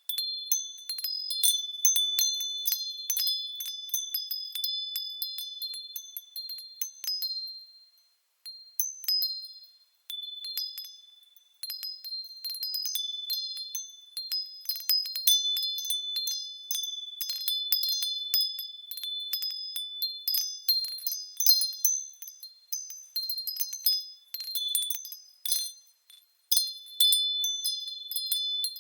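Japanese wind chimes (fūrin) ringing irregularly as the wind sways them: high, clear tones struck in quick clusters, with a few short lulls.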